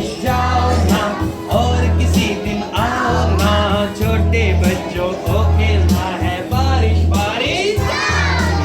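Children's nursery-rhyme song sung over upbeat backing music with a steady bass beat.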